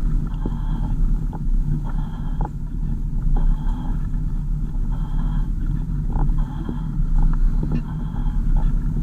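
Car driving: a steady low rumble of engine and road noise. A faint short sound repeats about once every second and a bit.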